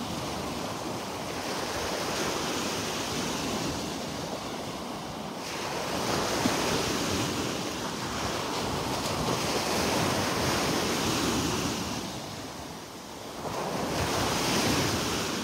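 Surf breaking and washing up on a sandy beach, swelling and easing in slow surges several seconds apart, with wind buffeting the microphone.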